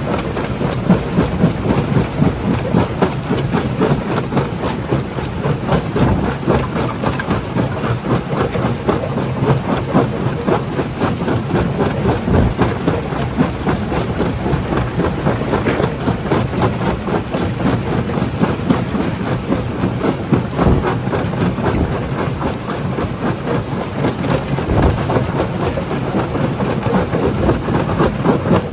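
Primary jaw crusher running under load, a steady heavy machine rumble full of dense clattering and knocking as rock is broken, with a few heavier knocks along the way.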